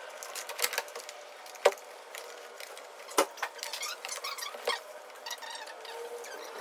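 Hand work on parts and tools: scattered clicks and rustling, with two sharp knocks about a second and a half apart.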